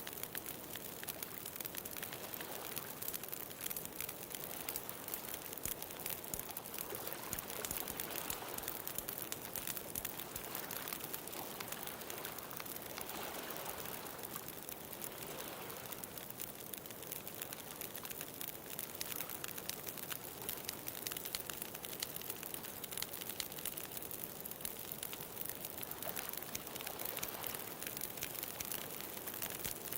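A wood bonfire crackling with a dense, steady patter of small pops. Under it, ocean waves swell and wash in a few times.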